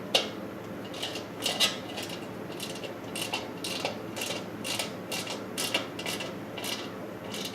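Hand ratchet wrench tightening small bolts on a mini bike: a run of short ratcheting strokes, about two a second, as the wrench is worked back and forth.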